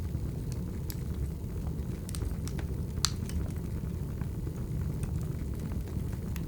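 Wood fire burning, a steady low rumble with scattered crackles and pops, the sharpest pop about three seconds in.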